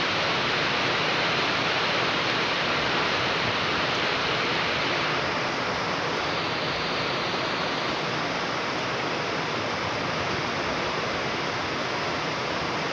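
Heavy rain falling, a steady dense hiss with no break.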